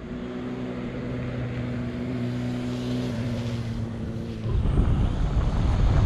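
A motor vehicle engine running with a steady low hum that dips slightly in pitch after about three seconds. The hum gives way at about four and a half seconds to loud wind buffeting the microphone.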